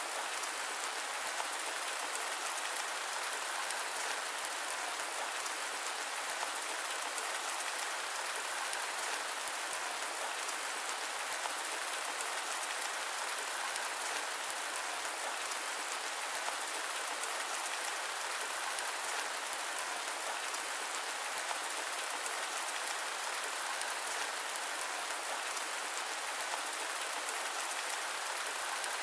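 Steady rain mixed with white noise: an even, unchanging hiss with no thunder.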